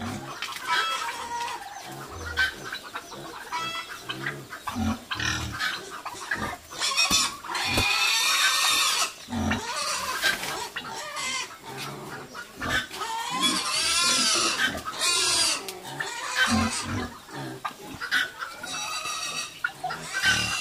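Pigs squealing repeatedly, with long loud squeals about 7 seconds in, around 13 seconds and near the end, and shorter calls in between.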